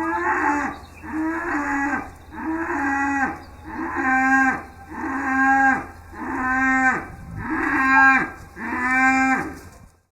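Cow mooing: a run of about eight short, evenly spaced moos, roughly one a second, each a brief pitched call that dips slightly at the end.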